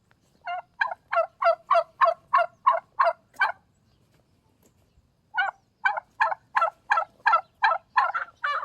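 Poultry calling in two rapid series of about ten loud, evenly spaced calls each, about three a second, with a pause of about two seconds between them.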